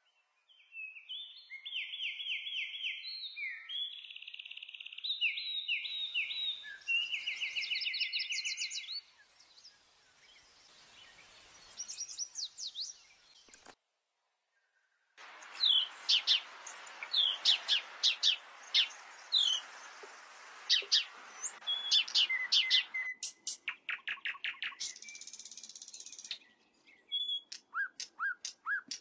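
Small birds chirping and trilling: quick repeated high notes and short chirps in stretches that start and stop abruptly, with a brief silence about halfway through and a steady hiss under the later calls.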